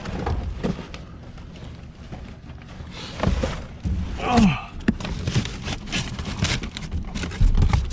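Items being handled in a dumpster, knocking and scraping with scattered short thuds and clicks. A brief falling vocal sound comes about four seconds in.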